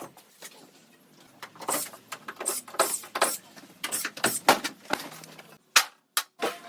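Irregular knocks and short scraping strokes of hand work on a wooden shed door, some strokes sharper and louder than others, with a brief pause near the end.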